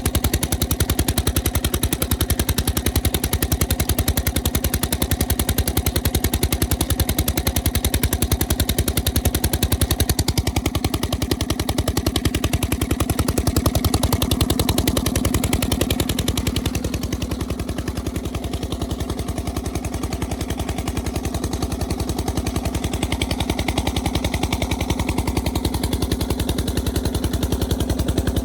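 1930s Krimo 35 hp hot-bulb oil engine running, each firing stroke a sharp bang in a rapid, even train. It runs steadily on its newly adjusted speed regulator, getting slightly quieter about two-thirds of the way through before picking up again.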